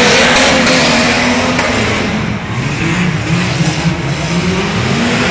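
Two Jeeps racing on a course, their engines revving hard with the pitch rising and falling as they accelerate and lift, over a dense noisy wash.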